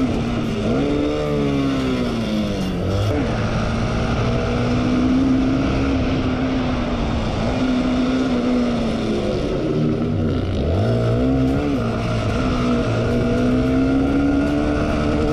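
Motorcycle engine running hard at high revs, dropping sharply twice, about three seconds in and about ten seconds in, and climbing back up each time as the throttle is rolled off and opened again, over heavy rushing noise.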